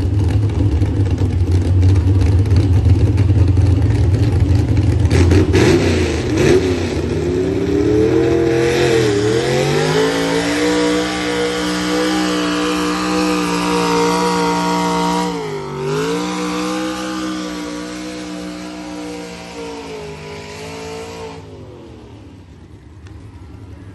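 A vehicle engine with a heavy low rumble that revs up and holds at high revs. It dips briefly once and recovers, then dies away near the end.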